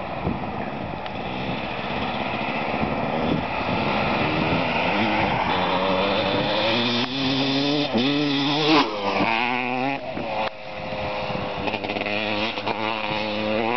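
1991 Honda CR250's two-stroke single-cylinder engine revving, its pitch rising and falling several times, with quick swings up and down about two-thirds of the way through.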